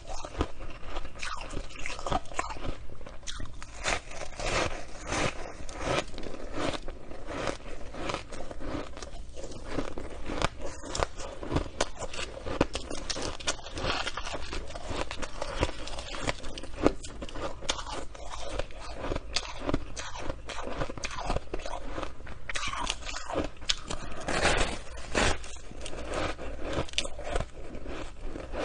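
Close-up crunching and chewing of shaved ice, a dense run of crisp crackles and crunches with no pause.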